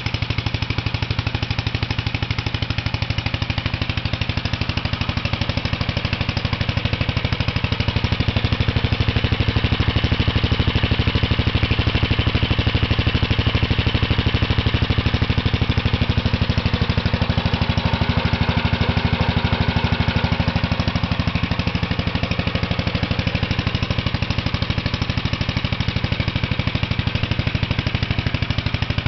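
Tractor engine running steadily on gasoline with a newly fitted ignition system, a fast even train of firing pulses, a little louder for a stretch in the middle.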